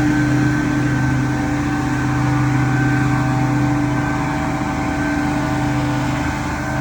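Gas-powered leaf blower running steadily at high speed, its engine tone holding level over the rush of air.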